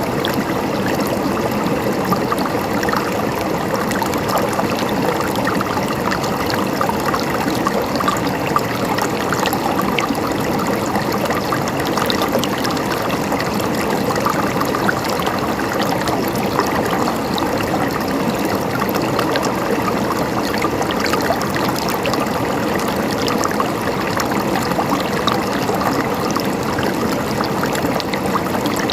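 Natural river flowing steadily over rocks, a continuous rushing of water with small splashes and trickles through it.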